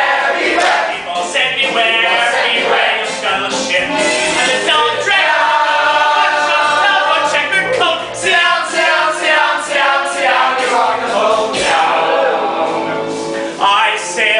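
A chorus of voices singing a show tune with accompaniment, loud and continuous.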